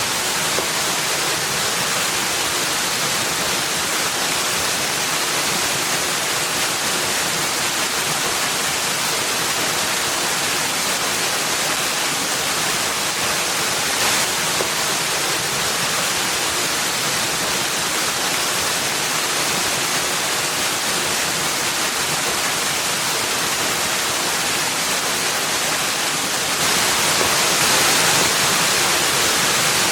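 Steady rushing water with no break or rhythm, a little louder near the end.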